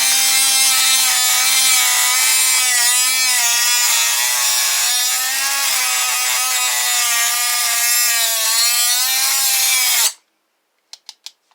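Dremel rotary tool grinding into a Master padlock's steel, a high-pitched whine with a rough hiss that wavers a little in pitch under load. About ten seconds in it cuts out suddenly, stalling again, and a few light clicks follow.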